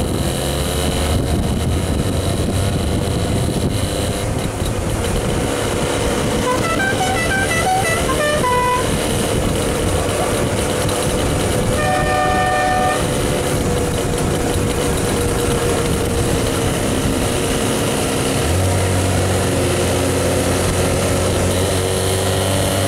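Velorex three-wheeler's Jawa 350 two-stroke engine running steadily under way. Partway through comes a quick run of short pitched beeps, then a horn toots once for about a second.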